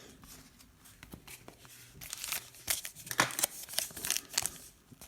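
Foil wrapper of a trading card pack being torn open and crinkled by hand, in a string of irregular crackles that start about two seconds in.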